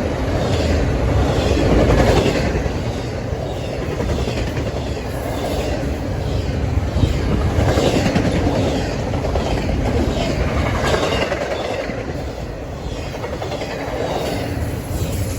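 CSX intermodal freight train I031 passing at speed, its cars rolling by with wheels clacking over the rail joints and a steady rumble that swells every few seconds. Heavy wind buffets the microphone.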